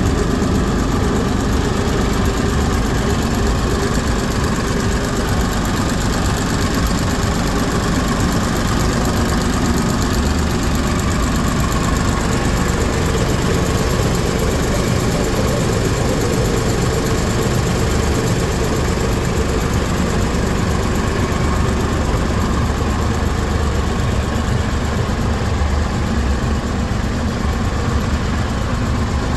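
Lister JP3 three-cylinder diesel engine driving a three-phase generator, running at a steady speed with no change in pitch or load.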